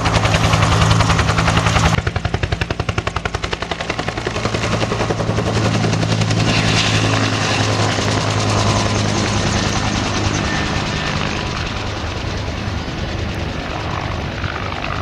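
Bell UH-1 Huey helicopter in flight, its two-bladed main rotor beating in a fast, loud thudding rhythm over a steady engine drone. The sound drops abruptly about two seconds in, then fades gradually.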